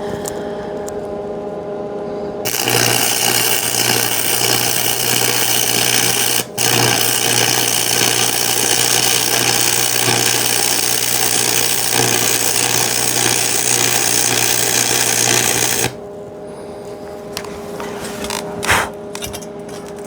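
Electric arc welding on steel square tubing: the arc crackles and sizzles with a steady buzz for about thirteen seconds, breaking off for an instant partway through, then stops.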